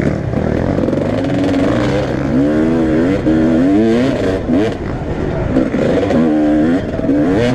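Motocross motorcycle engines racing, revving hard, their pitch climbing and dropping back again and again as the throttle opens and closes.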